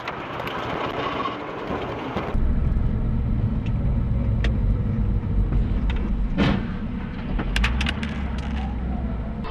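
Car driving on a road: a low, steady rumble of engine and tyres, with a sharp knock about six seconds in and a few clicks after it. The sound changes abruptly about two seconds in, from a lighter hiss to the heavier rumble.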